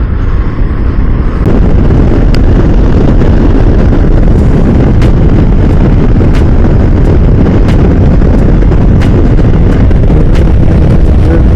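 Motorcycle at riding speed, heard mostly as loud wind rush and buffeting on the rider's microphone, getting louder about a second and a half in as the bike picks up speed.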